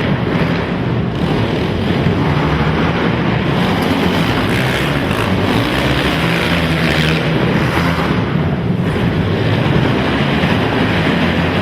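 Racing quad (ATV) engines running together, a loud, continuous engine drone with no break.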